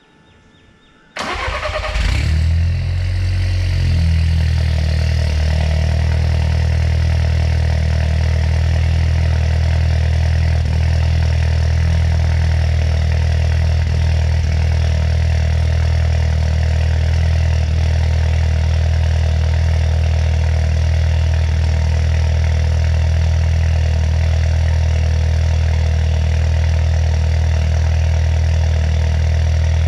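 VW Polo GT 1.2 TSI four-cylinder turbo petrol engine, Stage 2 tuned and breathing through a non-resonated full-system exhaust with a Remus valved muffler, starting about a second in. It flares briefly, then settles by about four seconds into a steady, low idle.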